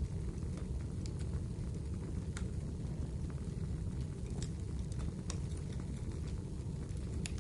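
Wood fire in a fireplace burning with a steady low rumble of flames, broken by a handful of sharp crackles and pops at irregular intervals.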